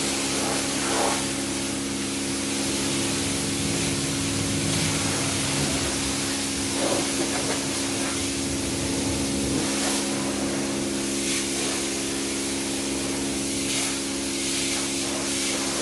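High-pressure water spray from a coin-operated self-service car wash wand, hissing steadily as the car is rinsed, with a steady hum underneath.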